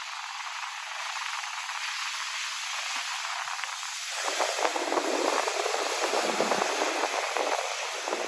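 Hiss of churning seawater heard with the camera under the water. About four seconds in it turns into a denser crackling fizz of bubbles.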